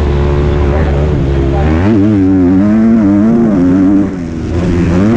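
Motocross bike engine running hard under race riding, its pitch rising and falling with the throttle. It drops off briefly about four seconds in, then revs up sharply again near the end.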